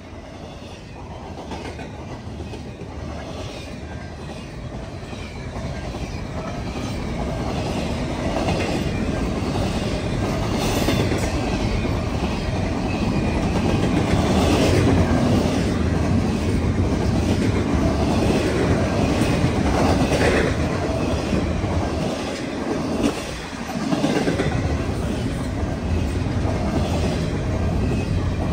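Freight train cars rolling past, steel wheels clacking over the rail joints. The rumble grows louder over the first dozen seconds, then holds steady apart from a brief dip about 23 seconds in.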